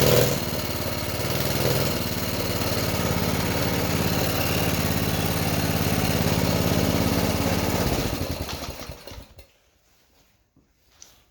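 Coleman mini bike's small single-cylinder engine running steadily after a carb clean and new spark plug, then shutting off about eight seconds in and winding down to a stop over a second or so.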